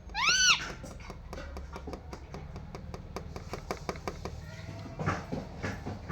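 Parrot giving one loud call that rises and falls in pitch, followed by a long run of quick, sharp clicks and a few softer sounds near the end.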